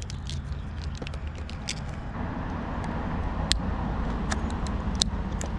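Scattered small metallic clicks and scrapes of a steel hook picking at the retaining ring inside a Fiat 500 door handle's lock cylinder, over a steady low rumble in the background.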